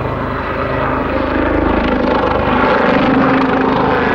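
Army Air Corps Lynx helicopter flying a display, its rotor and turbine engines running steadily and growing a little louder partway through.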